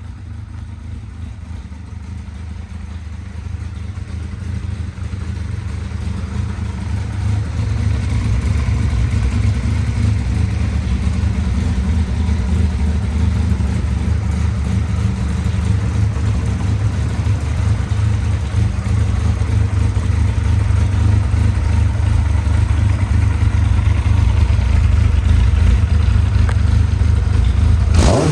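Yamaha XJR1300's air-cooled inline-four engine idling steadily through aftermarket twin carbon mufflers, growing gradually louder.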